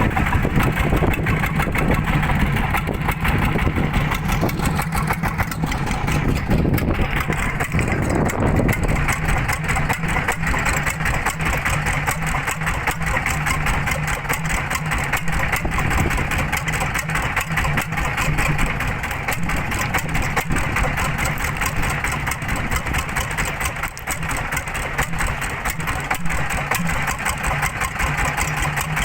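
Fishing boat's engine running steadily at an even pace.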